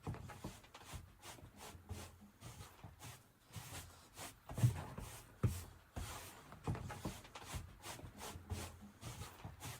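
Small wooden pieces being handled and fitted by hand: soft, irregular taps and short rubbing scrapes, with a sharper knock about four and a half seconds in.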